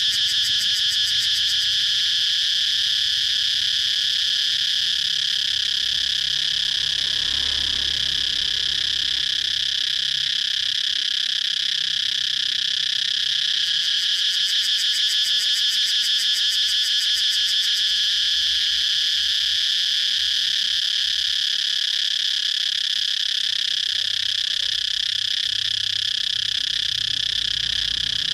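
Cicadas calling: a continuous high-pitched buzz made of very fast pulses, holding steady throughout.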